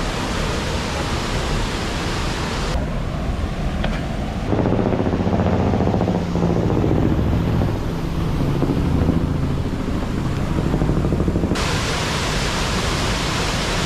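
Steady rushing roar of a waterfall. From about three seconds in, the sound abruptly turns muffled and low, rumbling for several seconds, then the full rushing returns near the end.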